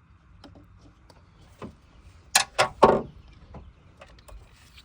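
Spark plug wire boots being twisted and pulled off the towers of a Ford Ranger's coil pack: three short, loud scrapes close together about two and a half seconds in, among a few small clicks of handling.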